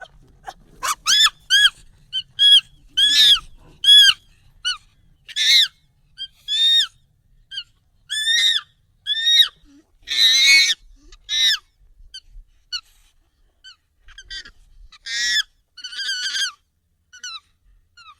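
Monkey calls, sped up and pitched up: a quick, irregular string of short, high calls, each rising and falling in pitch.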